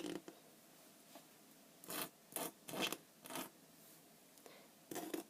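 Hands sweeping and rubbing sand across a glass drawing surface: a series of short swishes, several close together in the middle and one near the end.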